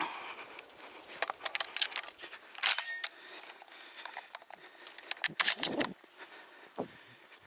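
Close handling noise: scattered clicks, knocks and rustles, loudest in a short scraping burst about two and a half seconds in and another cluster near the end.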